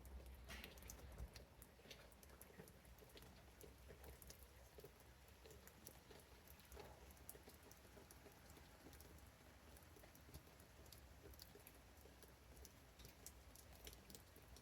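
Faint rain pattering and dripping on garden leaves: scattered light, irregular ticks of falling drops.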